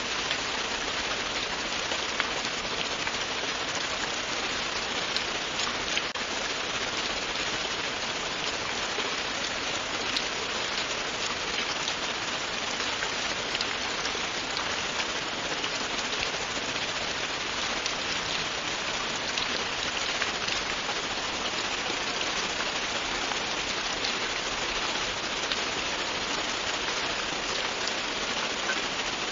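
Steady, continuous rain falling on a hard surface, with the patter of individual drops heard throughout.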